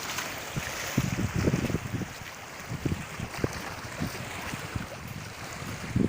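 Wind gusting against the microphone in irregular low buffets, over a steady wash of sea waves.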